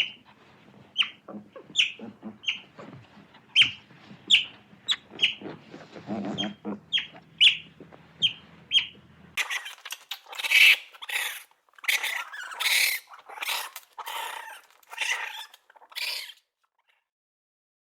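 Animal calls: a run of short, high chirps at about two a second, then a different series of louder, harsher, noisier calls.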